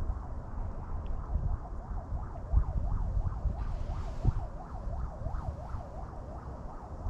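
Wind buffeting the microphone with a low rumble, under a tone that warbles steadily up and down about twice a second.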